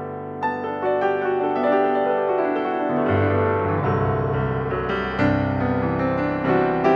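Background piano music: a slow melody of held notes over a lower accompaniment.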